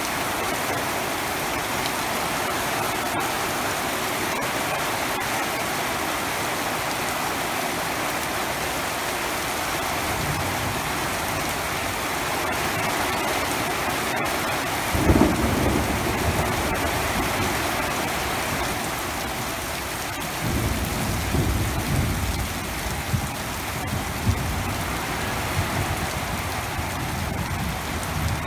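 Heavy rain falling steadily. A sudden clap of thunder comes about halfway through, and thunder rumbles on and off through the last third.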